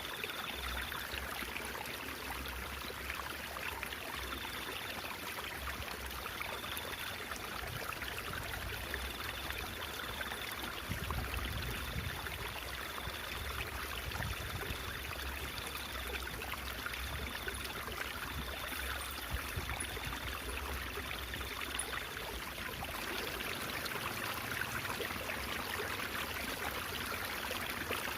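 Stream water babbling and trickling steadily, with a faint high-pitched tone that comes and goes in short dashes for the first two-thirds.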